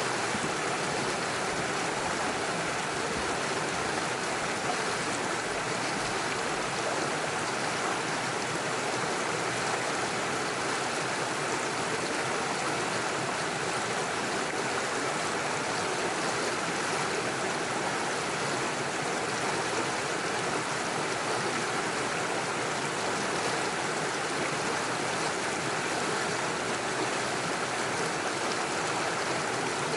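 Small rocky stream with little waterfalls, water rushing and splashing over stones in a steady, even flow.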